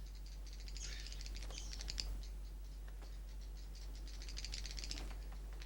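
Seychelles cave swiftlets echolocating: trains of rapid, sharp clicks, coming in two main bouts, over a steady low hum.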